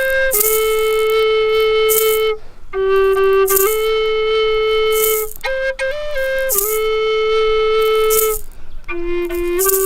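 A flute playing a slow melody of long held notes, each joined by quick ornamental steps in pitch, with three short breaks for breath between phrases.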